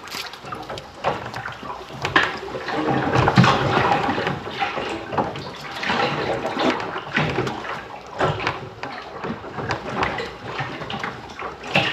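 Seawater splashing and sloshing in uneven surges, with small knocks and clicks mixed in.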